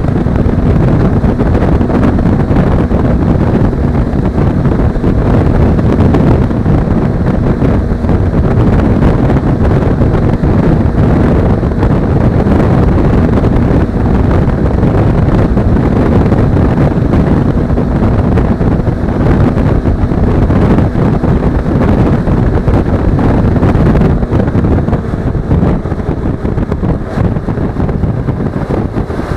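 Heavy wind rush on an action-camera microphone while riding a Suzuki V-Strom 250, with the bike's 248 cc parallel-twin engine running steadily underneath. It eases off slightly near the end.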